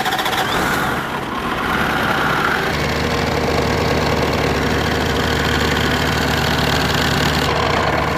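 Diesel engine of a Freightliner M2 106 box truck just started after an oil and fuel-filter change. It runs unevenly for the first few seconds, then settles into a steady idle about three seconds in.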